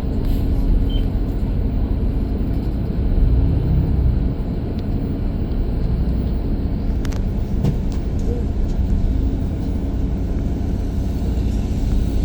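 Steady low rumble of motor-vehicle engines and road noise, with a faint engine hum running through it.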